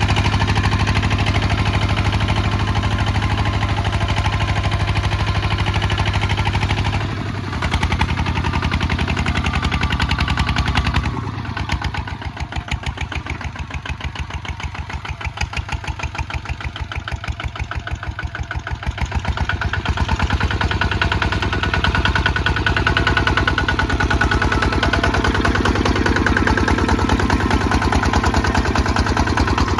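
Kubota ZT155 DI single-cylinder diesel engine running under plowing work, with a steady, fast firing beat. The engine note dips briefly and then goes quieter for several seconds from about a third of the way in, before coming back up to full level.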